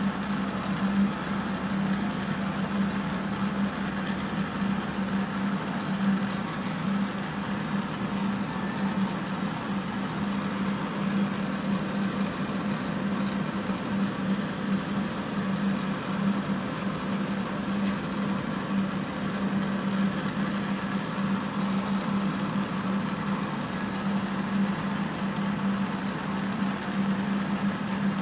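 Steady rushing and humming of several electric fans and a fume extractor running together, with the hiss of a silversmithing torch as a bezel is soldered.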